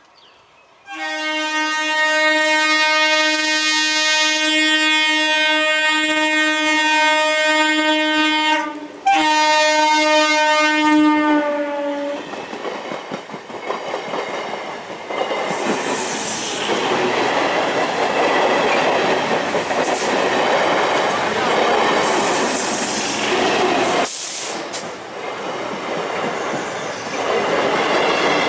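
A 9-coach EMU local train sounds its horn, one long blast of about eight seconds and then a shorter one of about three. Its coaches then rush past at speed, wheels clattering over the rail joints.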